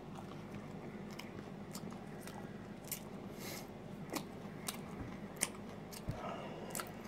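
A person chewing a mouthful of pizza, with irregular faint clicks from the mouth.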